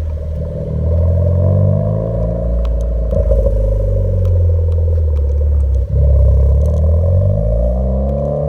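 Suzuki Swift Sport ZC33S's turbocharged 1.4-litre K14C Boosterjet engine running through a stainless-steel cat-back performance exhaust, its note slowly rising and falling, with a brief drop about six seconds in.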